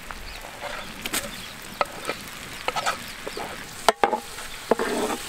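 Roasted garlic paste sizzling in a large metal pot of hot butter and oil as it is stirred with a ladle, with scattered clicks and scrapes of the ladle against the pot and a sharp knock about four seconds in.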